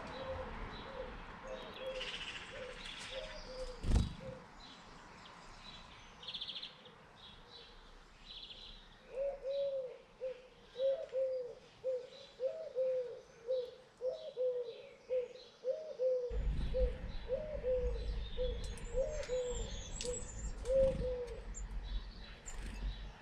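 A dove cooing in a long run of short notes that rise and fall, about one and a half a second, with small birds chirping faintly behind. There is a single thud about four seconds in, and a low rumble starts about two-thirds of the way through.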